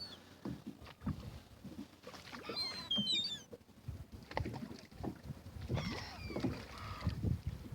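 Gulls squawking in a flock, with a burst of calls about two to three seconds in and another near the end, over water sloshing and knocking against a small boat.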